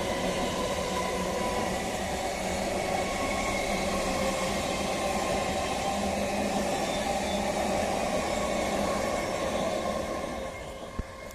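Electric local train (EMU) running along the track past the listener, a steady rumble of wheels on rails with a steady hum. It fades near the end as the train moves away.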